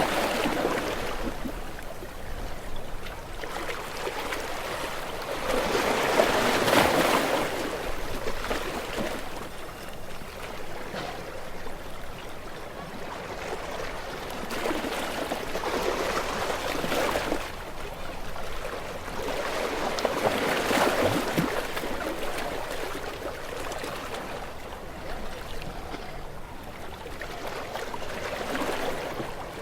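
Gentle sea waves washing onto a shore, each one swelling in a rush of water and then draining away. There are several of them, a few seconds apart.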